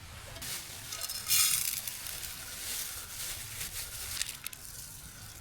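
Wood campfire burning, crackling and hissing with scattered pops, and a louder rush about a second and a half in.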